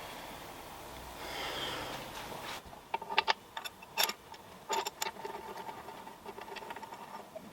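Rubbing and scraping of parts being handled, then a run of sharp metallic clinks and knocks with short ringing, about three seconds in. The sounds come from cast-iron drill-press parts being handled and fitted together.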